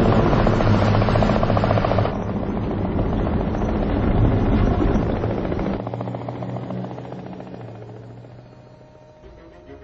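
Film soundtrack of a helicopter: a loud, rapid rotor chopping over a steady low hum, which drops a little about two seconds in and then fades away over the last few seconds.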